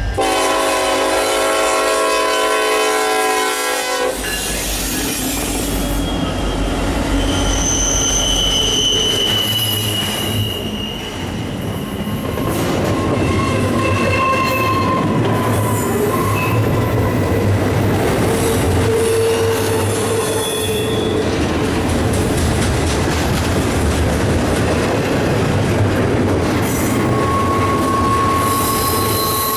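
Freight locomotive horn sounding a multi-note chord that cuts off about four seconds in. Then the diesel locomotives pass close by with a heavy rumble, and a long train of double-stack container well cars follows, its wheels clattering on the rails with on-and-off high-pitched squeals.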